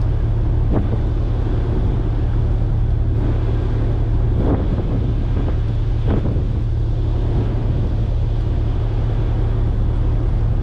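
Engine running steadily at idle, a constant low hum, with wind noise over the microphone.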